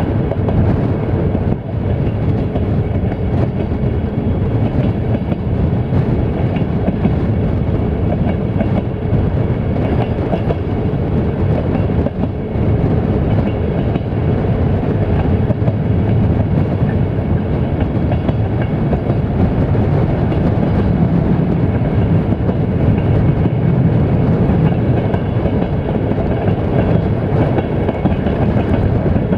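Passenger train coaches running on the rails, a steady rumble of wheels on track heard from a window of the moving coach.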